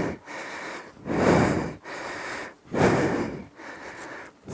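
A man breathing hard: heavy, noisy breaths in and out, a little under one a second.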